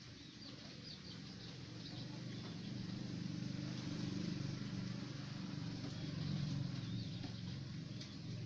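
Faint high bird chirps in short runs, a cluster about a second in and a few more near the end, over a low steady hum that grows louder after the first couple of seconds.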